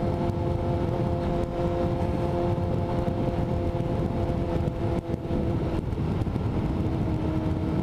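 Motorcycle engine running at a steady speed during a ride, with road and wind rumble underneath. Its pitch holds nearly constant and dips slightly about six seconds in.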